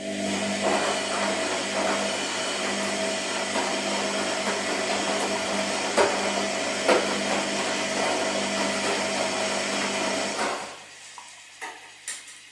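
Washing machine motor turning the drum during the wash cycle: a steady whine with a whooshing hiss and a couple of knocks, running for about ten seconds and then stopping, followed by two sharp clicks.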